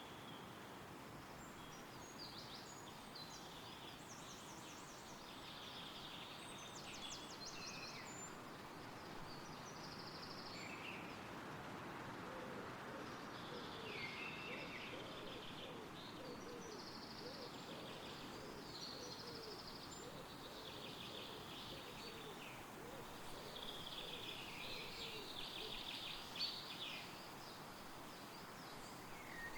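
Steady wind rustling through forest trees, swelling a little midway, with several songbirds singing rapid trilled and chirping phrases throughout.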